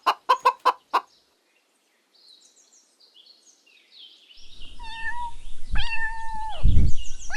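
A hen clucking in a quick run of about six clucks, then, after a near-quiet stretch with faint high chirps, a cat meowing twice, the second meow longer and held.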